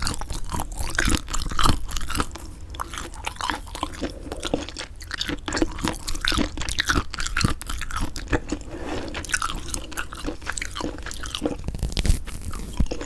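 Close-miked chewing of semi-dried squid: dense, irregular wet crackles and clicks as the chewy, fibrous flesh is bitten and worked between the teeth.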